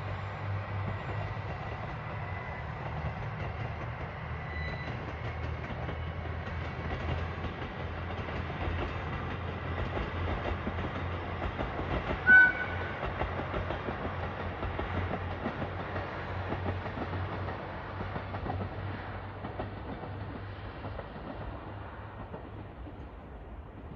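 Suigun Line diesel railcar train pulling out and running along the track: a steady low engine drone with rail noise. About halfway through comes one short, loud horn note. The sound fades slowly toward the end.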